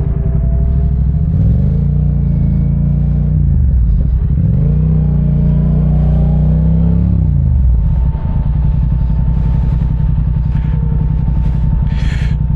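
Parallel-twin motorcycle engine twice revving up as it accelerates and then easing off, after which it runs steadily at a lower, even pitch. A brief noise comes near the end.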